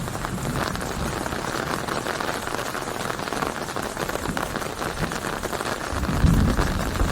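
Steady rain falling on a surface, a dense crackle of many close drops. About six seconds in a low rumble swells up under it.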